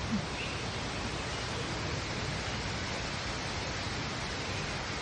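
Steady, even rushing noise filling the indoor rainforest exhibit, with no breaks or changes.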